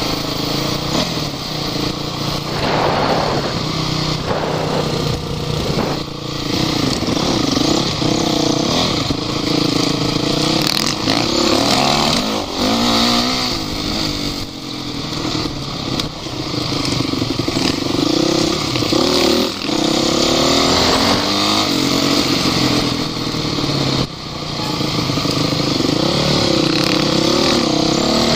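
An off-road vehicle's engine revving up and down again and again under load, its pitch rising and falling every second or two as it is driven over rough ground.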